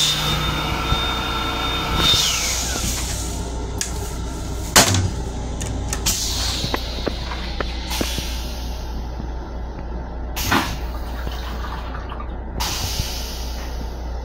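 Inside an M7 electric railcar's restroom, a small electric motor whines up to speed and winds down during the first two seconds. After that comes the steady low rumble of the car running, broken by a sharp knock about five seconds in and two lighter knocks later.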